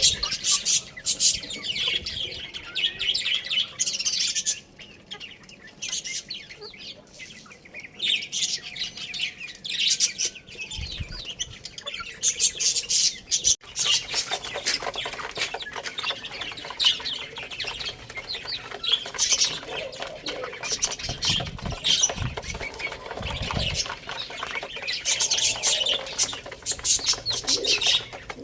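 Many small birds chirping busily and continuously, with a few low thumps in the second half.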